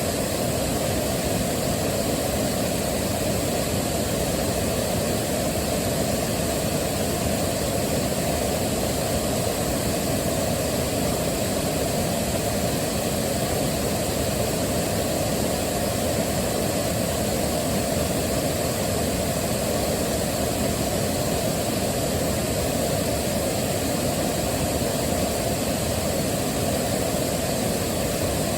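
Waterfall rushing steadily, a constant deep roar of falling water with most of its weight low down and no change in level.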